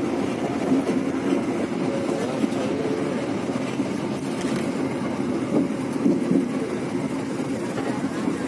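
Steady running noise of a passenger train heard from inside a crowded economy coach: the wheels running on the rails and the carriage rumbling, with no clear beat of rail joints.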